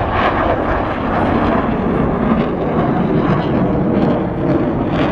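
Blue Angels aircraft engine noise at an air show, loud and steady.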